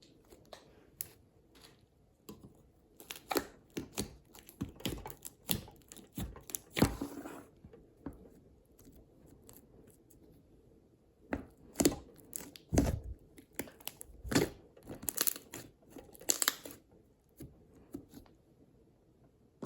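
Hands playing with slime: a run of sharp pops, clicks and crackles as it is pressed and stretched, with a quieter pause of a few seconds in the middle.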